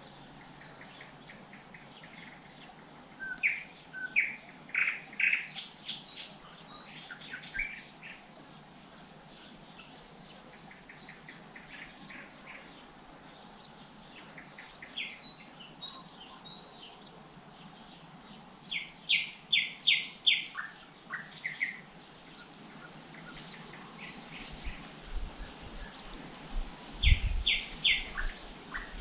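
Small songbirds singing in several runs of quick, repeated high chirps over a faint steady background, with a brief low thud near the end.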